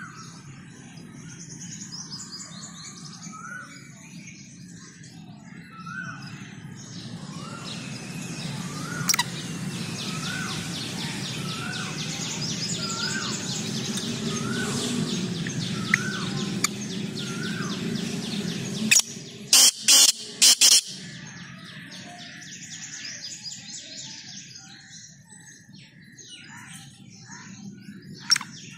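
Birds calling: a short hooked note repeated about every three-quarters of a second for several seconds, over fast chattering chirps. A few sharp, loud clicks come about twenty seconds in.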